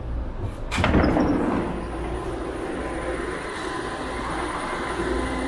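BART train noise: a steady low rumble inside the car, then an abrupt change about a second in to the sound of a BART train at an underground platform, a steady rumble with a faint high whine.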